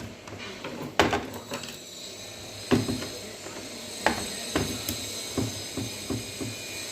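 Irregular clicks and knocks from tools and parts being handled while an LED TV is being taken apart. The sharpest knocks come about a second in and just under three seconds in, with lighter taps after them.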